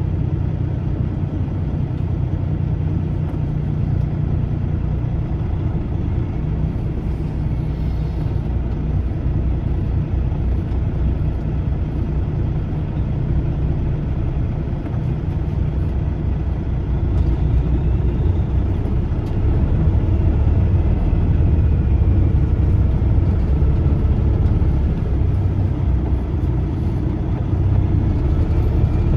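Semi-truck diesel engine running with a steady low rumble, growing louder about two-thirds of the way through as the truck pulls under more power.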